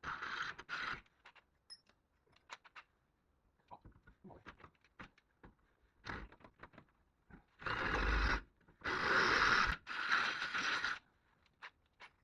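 Scraping and rustling from hand work, in three noisy bursts: a short one at the start and two longer ones near the end. Scattered small clicks and taps fall in between.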